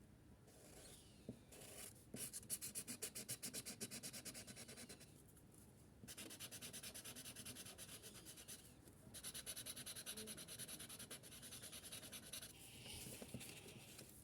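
Small tip of a felt-tip marker hatching on paper in quick back-and-forth strokes, about eight a second, in three runs with short pauses between them. Faint.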